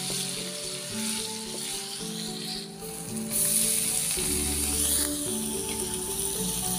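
Spice paste sizzling in hot oil in a large aluminium wok, with a metal spatula stirring it. After a brief break a little before halfway, the sizzling is louder as fresh spinach leaves are stirred through the wok. Background music plays throughout.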